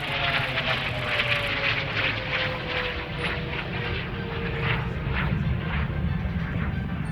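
Hongdu L-15 jet trainers flying past: jet engine roar with a whine that falls steadily in pitch as they go by.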